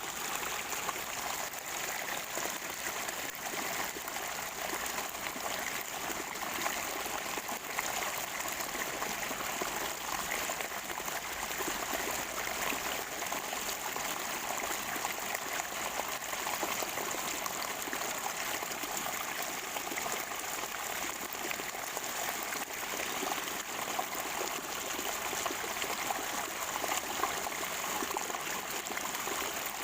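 Water of a natural spring running and gurgling steadily, with a fine trickling texture and no pauses.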